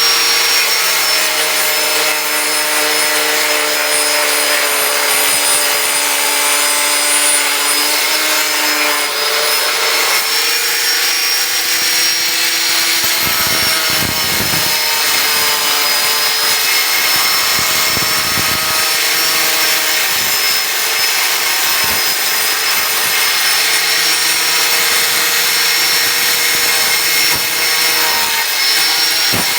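Angle grinder cutting through the metal shell of a water heater: a steady, loud grinding hiss over a high motor whine that wavers slightly as the disc bites.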